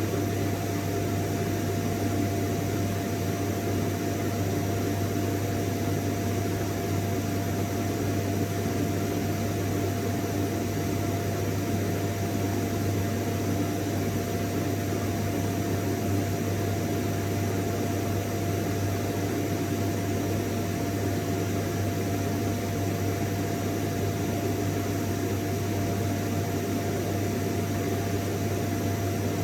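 Vacuum cleaner motor running steadily, a constant hum with a whirring tone and a hiss of air, unchanging throughout.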